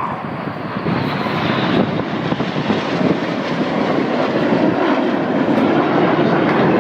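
Jet noise from Red Arrows BAE Hawk trainers flying a display: a steady rushing roar that grows louder as the aircraft come closer.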